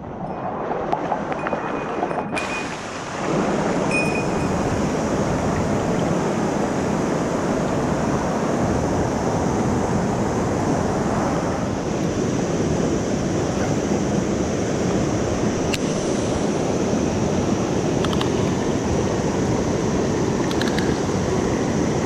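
Mountain stream water rushing steadily, growing louder about three seconds in and staying even after that, with a few faint clicks over it.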